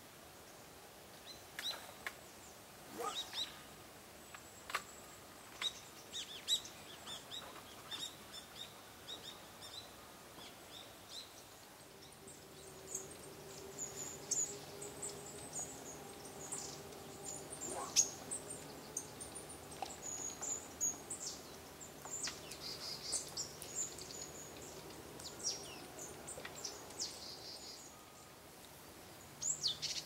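Small birds chirping and calling, with many short high calls scattered throughout. From about twelve seconds in, a faint low steady hum joins in and stops near the end.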